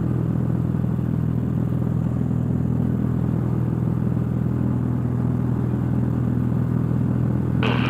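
Cessna 172's piston engine and propeller droning steadily at climb power, heard inside the cockpit.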